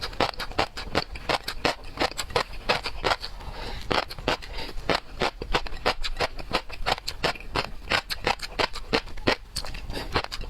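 Seafood being chewed and its shells cracked: a dense, irregular run of sharp crunching and crackling clicks, several a second.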